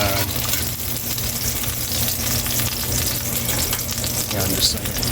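Onions frying in a pan, a steady sizzle.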